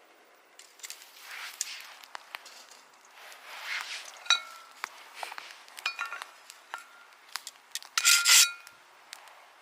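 Camp gear being handled: rubbing and scraping with scattered clicks and several short, ringing metallic clinks, the loudest scrape and clink about eight seconds in.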